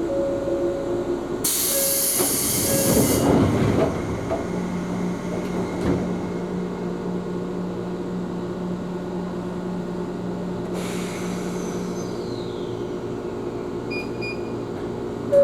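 Ohmi Railway electric train running on the line, heard from inside the car: steady wheel and track rumble, a loud burst of hiss about a second and a half in that lasts about two seconds, and a steady low hum through the middle.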